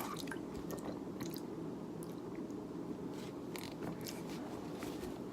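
Quiet mouth sounds of someone tasting a drink: scattered small clicks and smacks over a steady low hum.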